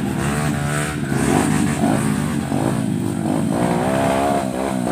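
Trail motorcycle engine revving up and down, its pitch rising and falling repeatedly as the throttle is worked.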